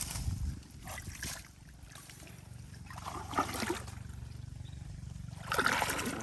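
Water and wet mud splashing in three short bursts, over a steady low rumble.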